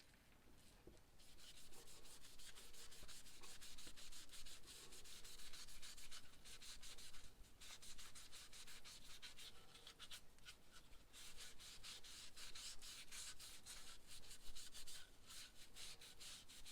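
Rapid back-and-forth hand-sanding strokes, starting about a second in and broken by a couple of short pauses.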